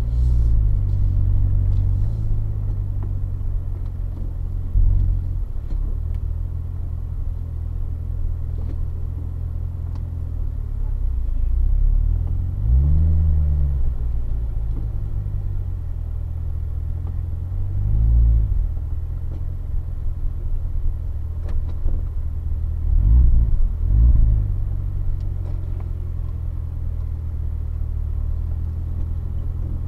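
2015 Corvette Z06's supercharged 6.2-litre V8 rumbling at low revs in first gear as the car creeps along, heard from the cabin. The engine speed rises and falls briefly about 13 and 18 seconds in, and twice in quick succession around 23 to 24 seconds.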